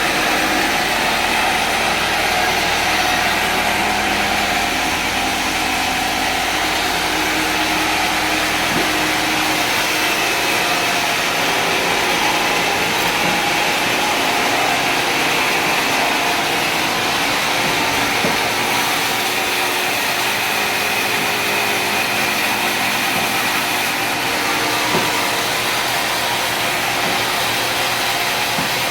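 Sawmill machinery running steadily, a continuous motor-driven whirring noise. A low rumble underneath drops away about nine seconds in.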